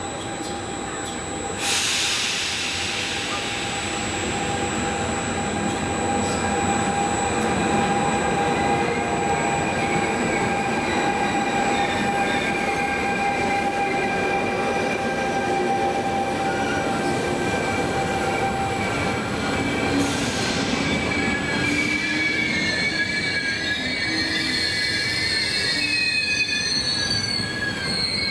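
A train running through a station with its wheels squealing: several high, steady squealing tones over the rumble of the cars, growing more numerous and wavering toward the end. A sudden rush of hissing noise comes about two seconds in.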